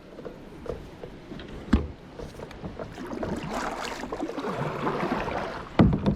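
Kayak moving through creek riffles: water rushing and splashing around the hull, swelling in the second half, with paddle clicks and two sharp knocks against the boat, one about two seconds in and one near the end.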